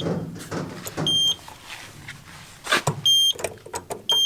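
Electronic beeps from a push-button panel: three short beeps of the same high tone, one about a second in, one about three seconds in and one near the end, with clicks and knocks between them.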